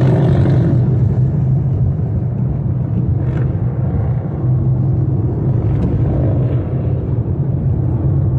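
Steady low rumble of a car driving at freeway speed, heard from inside the cabin.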